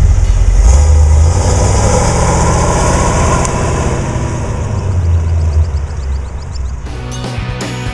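Engine of a 1937 Buick Century street rod running as the car drives, a steady low rumble that slowly gets quieter. Near the end it gives way to rock music with guitar.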